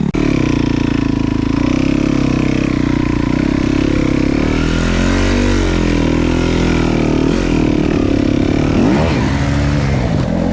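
Enduro dirt bike being ridden on a trail, its motor running continuously, the pitch rising and falling as the throttle changes.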